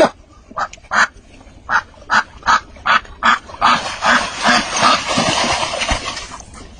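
An animal honking loudly: a sharp call at the start, then a quick series of short honks about twice a second that run together into one continuous stretch for the last few seconds before dying away.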